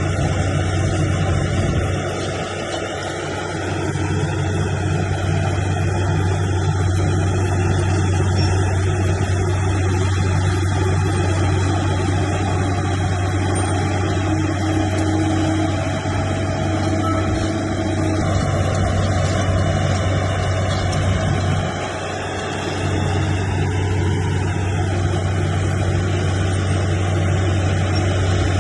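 Bulldozer's diesel engine running steadily under load, easing off briefly twice, a couple of seconds in and again about three-quarters through.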